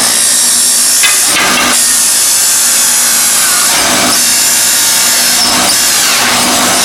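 Shopsmith driving a hole saw as it cuts out a round engine-mount disc. A loud, continuous motor-and-cutting noise, with the cut surging briefly a few times.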